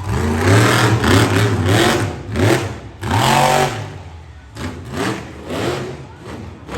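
Monster truck engine revving hard in repeated surges, its pitch climbing and falling about five times.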